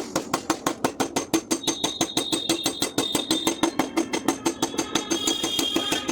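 Rapid, even tapping on car door sheet metal, about six or seven taps a second, each with a short metallic ring: a hammer or tap-down tool knocking down a dent in paintless dent repair.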